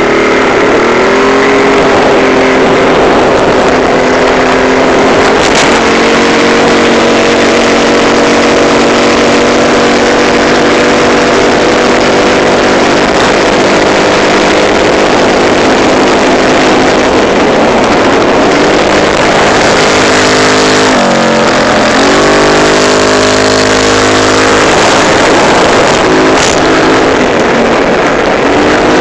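Yamaha BWS scooter engine revved up and held at a steady raised speed. Around two-thirds of the way through, the throttle is briefly let off, the engine speed dips, and it is then opened again.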